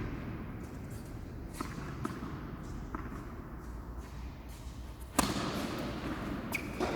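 Tennis ball impacts on a court: a couple of faint knocks, then a loud sharp hit about five seconds in and another near the end.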